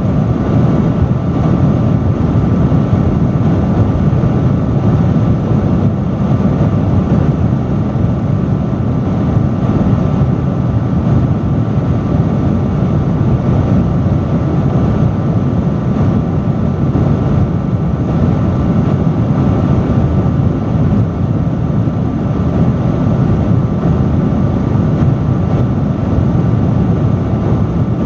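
Loud industrial fan running steadily, a constant rush of air that is strongest in the low range, with a faint steady hum on top.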